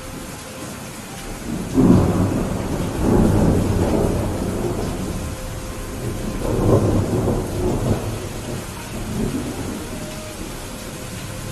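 Steady rain with thunder rumbling over it. The thunder swells about two seconds in, rolls on, and swells again around six to seven seconds.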